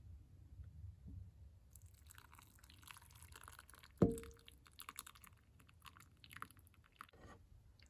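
Dog licking a person's fingers: a run of small wet smacking clicks that starts about two seconds in and stops near the end. About halfway through there is one sharp clink with a brief ring, the loudest sound.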